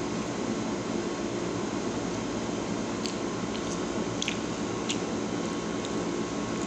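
Steady background hiss, with a few faint clicks of chewing around the middle as a forkful of chocolate waffle is eaten.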